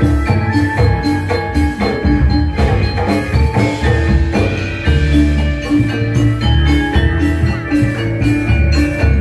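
Balinese gamelan music: bronze metallophones ringing in quick, evenly repeated strokes over drums, with strong low notes underneath.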